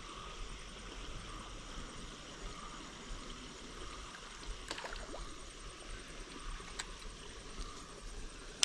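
Calm outdoor ambience by still canal water: a steady soft hiss with faint water sounds, and a few small clicks around the middle.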